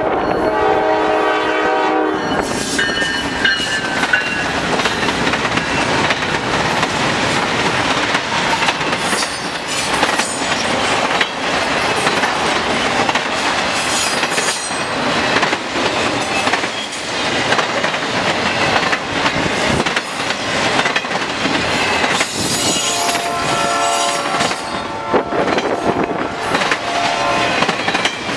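Diesel locomotive horn sounding a chord for the first two seconds, then a Norfolk Southern train led by four GE Dash 9 and Dash 8 diesel locomotives rushing past with a long intermodal consist, its wheels clicking steadily over the rail joints. A second horn-like chord sounds near the end.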